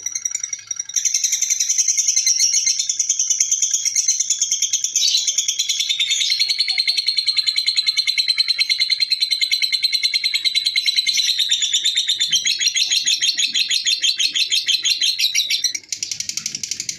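Lovebird giving a long 'ngekek': a rapid, high chattering trill of fast repeated notes, unbroken for about fifteen seconds, with a brief break near the end before it starts again.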